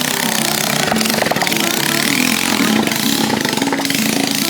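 Dirt bike engine running loudly with a buzzing note, its pitch rising and falling as it is revved.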